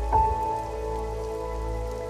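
Steady rain under slow, soft ambient music. A single ringing note is struck just after the start and sustains, fading slowly over the held tones.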